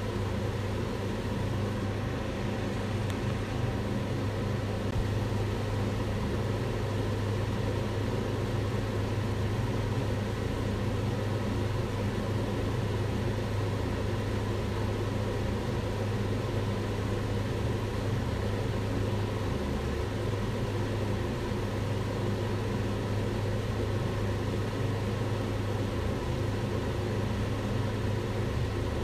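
Kitchen range hood fan running steadily: a constant whooshing rush of air over a low motor hum.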